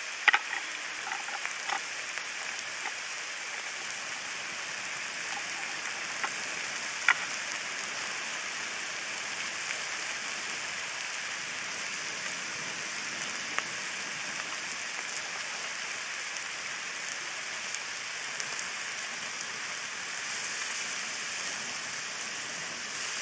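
Kebab sizzling steadily as it cooks, a constant spitting hiss. A few sharp clicks of handling come in the first couple of seconds, and a louder click about seven seconds in.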